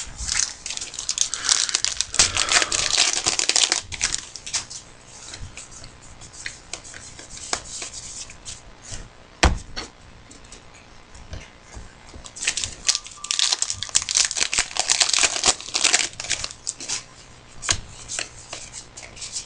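Trading card pack wrappers being torn open and handled, with the cards inside shuffled, in two bouts of dense crackling: one at the start and one about twelve seconds in. Scattered small clicks come in between, with one sharp click about nine and a half seconds in.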